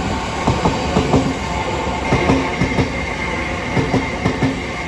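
Class 707 Siemens Desiro City electric multiple unit rolling past, its wheels clicking over the rail joints in irregular clusters, with a thin steady high whine from about two seconds in.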